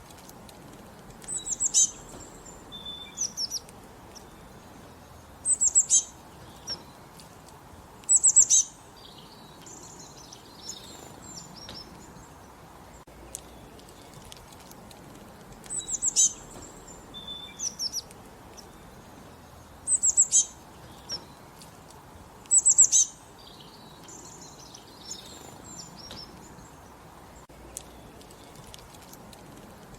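Songbirds singing: short, high, rapid phrases of quickly falling notes, repeated every two to four seconds, over a steady low background hiss of open country.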